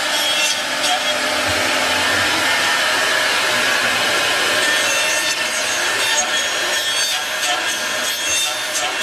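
CNC dovetail and drawer-joint machine cutting wood: a steady, continuous cutting noise with a faint steady whine.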